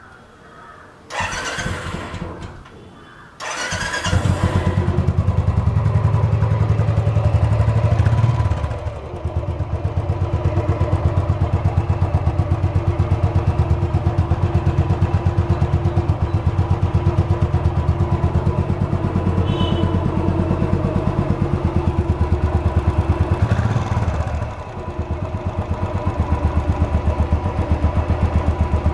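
Royal Enfield Classic 350's single-cylinder engine being started: short bursts of cranking, then it catches about three and a half seconds in. It runs faster for a few seconds and then settles into a steady, even idle, with a brief throttle blip near the end. The owner credits the semi-synthetic oil with leaving it free of tappet noise.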